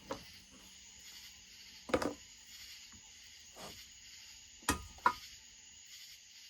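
A few sharp clicks and knocks of chainsaw parts and tools being handled on a workbench: one about two seconds in and two close together near five seconds. Crickets chirp steadily behind them.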